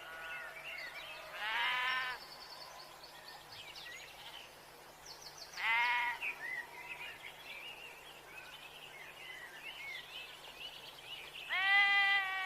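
Sheep bleating three times, each a short quavering bleat, several seconds apart, with faint bird chirps in between.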